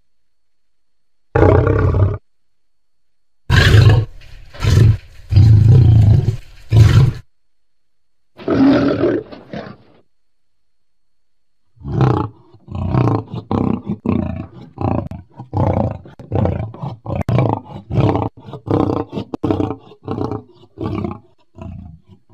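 Lion roaring: a short call, then several loud, deep roars, one more roar, and a long run of shorter calls about two a second that trail off near the end. Dead-silent gaps separate the pieces.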